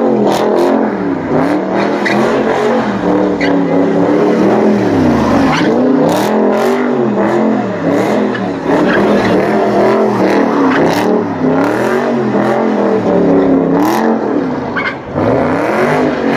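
A car's engine revving hard and repeatedly as it spins donuts, its pitch swinging up and down every second or two, over the hiss of tyres spinning on asphalt.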